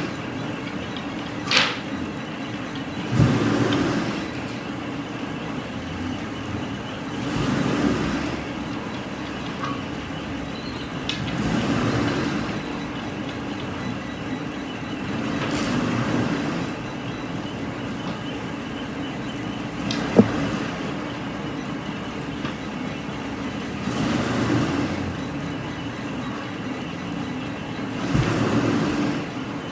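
Machinery running with a steady hum that swells in a regular cycle about every four seconds, with a sharp knock or two in between.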